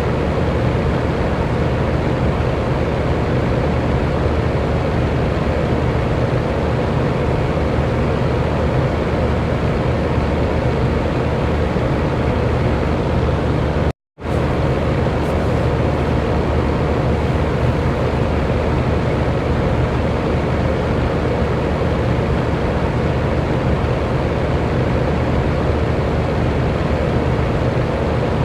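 Electric fan running with a steady whoosh of moving air and a faint motor hum. The sound cuts out for a split second about halfway through, then resumes.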